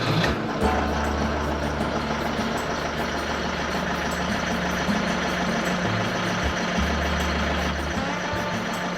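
An engine running steadily just after being started, with a low hum that dips out briefly a few times.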